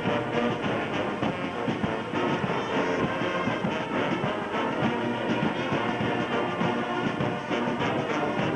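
Brass band music, with trombones and trumpets playing steadily.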